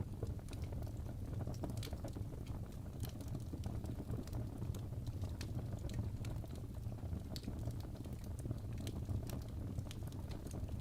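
Wood fire burning in a fireplace: a steady low rumble of flames with frequent irregular small crackles and pops from the logs.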